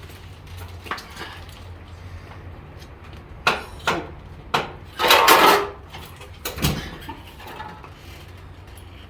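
Knocks and clunks from a heavy motorcycle being pushed and manoeuvred by hand, with a longer scraping rattle about five seconds in, over a steady low hum.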